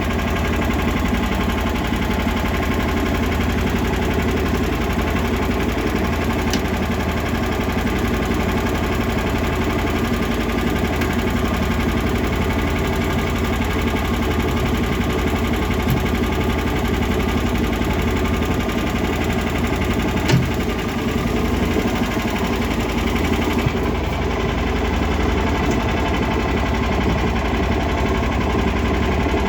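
Lifan engine of a home-built karakat running at a steady speed, with one short click about 20 seconds in.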